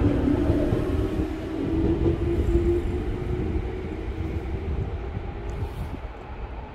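Tokyu 9000 series electric train accelerating away from the platform, its Hitachi GTO-VVVF inverter giving a rising motor tone over wheel and running noise. The sound fades steadily as the train leaves.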